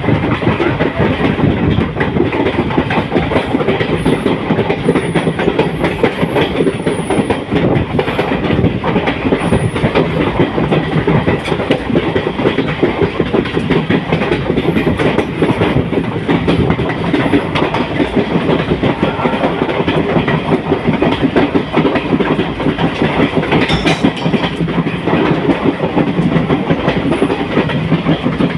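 Passenger express train running on the line, its wheels clattering over the rail joints in a steady, loud, continuous rumble.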